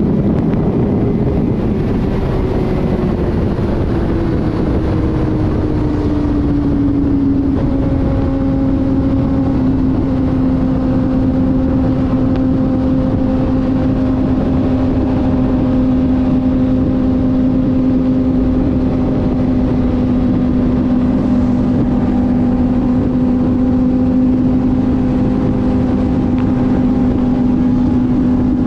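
Inline-four sport bike engine running at highway cruising speed, its pitch easing down over the first several seconds and then holding steady, under a heavy rush of wind on the microphone.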